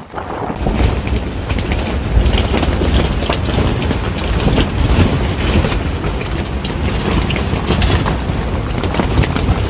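Gale-force wind buffeting the microphone: a loud rumbling roar full of crackling gusts, setting in abruptly about half a second in.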